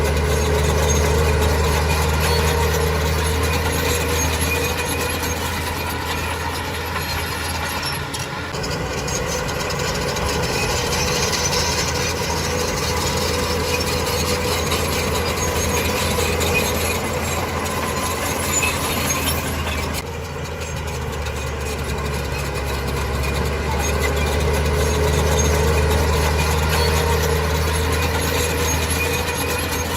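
Heavy diesel engine of earthmoving machinery running steadily with a deep hum. The sound changes abruptly twice.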